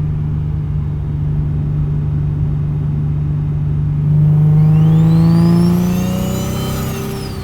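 Single-turbo Infiniti G37's 3.7-litre V6 accelerating. The engine runs at a steady note, then about four seconds in it pulls harder and a high turbo spool whine rises steeply in pitch with the engine note. The whine peaks and begins to fall away near the end.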